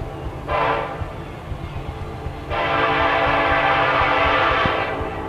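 Freight locomotive air horn sounding a short blast and then a long blast of about two seconds, over the low rumble of the approaching train.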